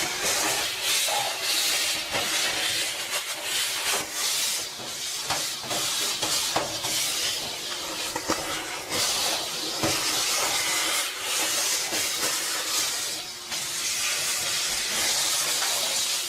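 Pump sprayer spraying coil cleaner: a hiss that comes and goes in many uneven bursts.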